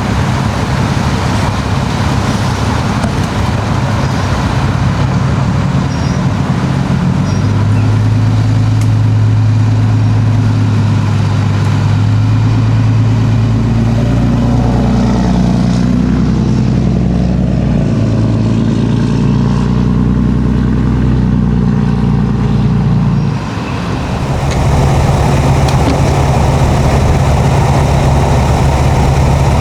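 An engine running steadily with a low hum; a stronger low tone comes in about seven seconds in, and the sound dips briefly near the end before settling into a steady hum again.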